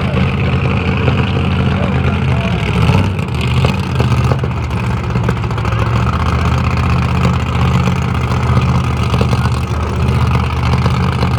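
Drag car's engine running steadily at a low idle, with a brief shift about three seconds in.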